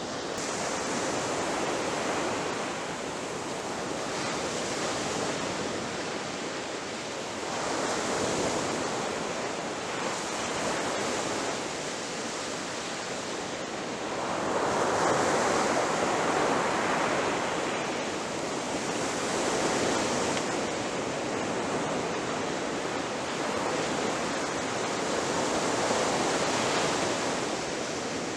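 Ocean waves breaking on a beach: a continuous rushing wash that swells and falls back every few seconds, with the largest wave breaking about halfway through.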